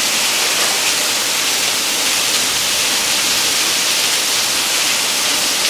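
Heavy downpour of rain: a steady, loud hiss of falling water.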